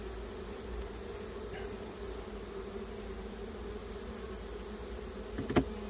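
Honeybees buzzing from an open hive, a steady hum. One short sharp click comes near the end.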